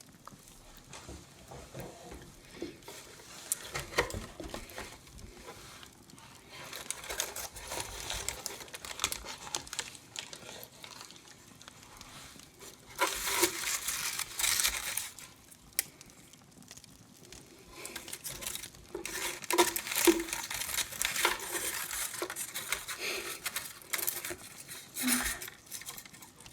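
Hands rummaging through a box of Christmas decorations, crinkling and rustling packaging in several bouts with small clicks and taps between them.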